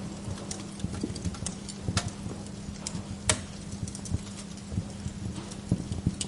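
Wood fire in a fireplace crackling, with irregular small pops and a couple of sharper snaps about two and three seconds in, over a steady low hum.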